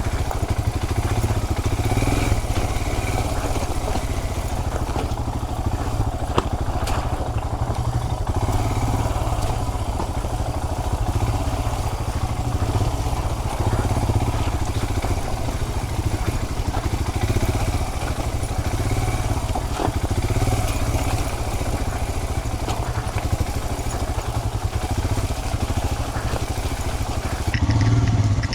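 Royal Enfield Himalayan's single-cylinder engine running steadily while the motorcycle is ridden, a continuous low drone. Near the end the sound changes abruptly.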